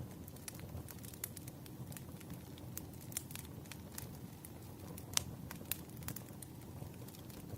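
Wood fire crackling: irregular sharp pops and snaps over a low steady rumble of burning logs, with one louder pop about five seconds in.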